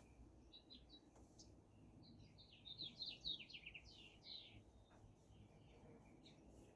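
Faint birdsong: scattered chirps, with a quick run of short descending notes in the middle.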